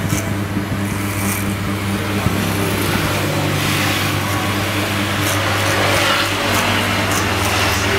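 Electric hair clipper buzzing steadily while cutting hair, with short crisp ticks now and then.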